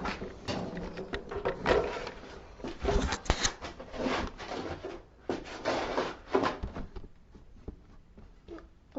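Irregular knocks, clicks and rubbing of equipment being handled close to the microphone, as the camera is set up on a ladder. The noises are busiest in the first several seconds and quieten near the end.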